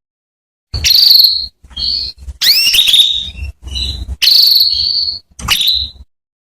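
Female domestic canary calling to a male: a run of about six high chirps and rising calls, some drawn out into short trills.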